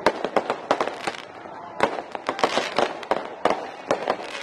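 Fireworks going off overhead: a dense, irregular string of sharp bangs and cracks, several a second, with a stretch of crackling about halfway through.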